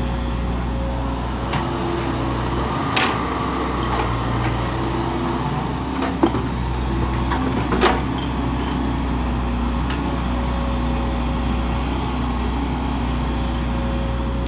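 Diesel engine running steadily at a constant speed, with a few sharp knocks about 3, 6 and 8 seconds in.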